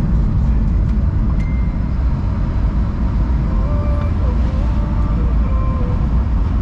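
Steady low drone of engine and road noise inside a BMW E36 cabin while it is driven at a steady speed.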